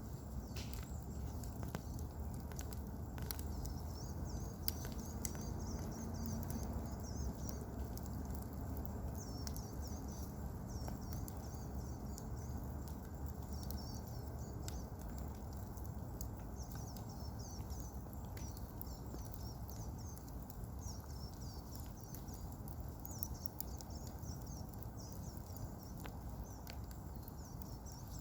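Campfire burning: scattered sharp crackles and pops over a low steady rumble. High chirping runs on behind it.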